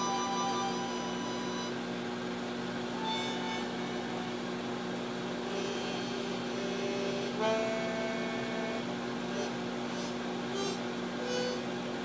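A steady low electrical hum runs throughout. Over it, a few scattered held musical notes sound, harmonica-like, each lasting under a second or so, one near the start, a longer pair about halfway in and one near the end.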